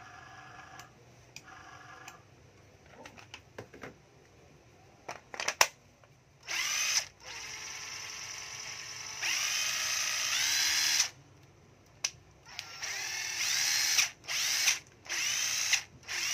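Cordless drill motor run in a series of trigger pulls, each one whining up to speed and then cutting off, some runs louder and faster than others. A few handling clicks come before the first run.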